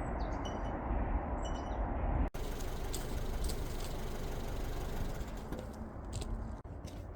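Steady outdoor background noise, like wind or flowing water, with a few short bird chirps in the first two seconds; after a cut, the noise goes on with scattered faint crackling ticks.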